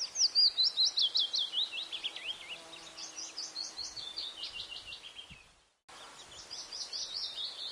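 Bird song: a quick run of short down-slurred chirps, several a second, sliding gradually lower in pitch. It cuts out abruptly about five and a half seconds in and resumes a moment later.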